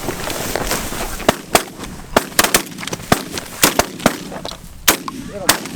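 Volley of shotgun fire from several hunters shooting at once: about a dozen sharp shots in quick, uneven succession, starting about a second in. A few goose honks are heard near the end.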